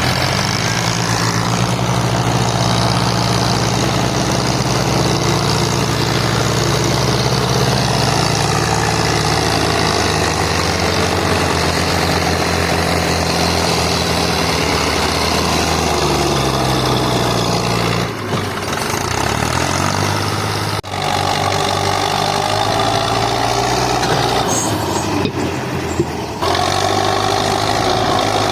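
Tractor diesel engine running steadily, its pitch dropping and shifting about two-thirds of the way through, with sudden breaks near 18 and 21 seconds.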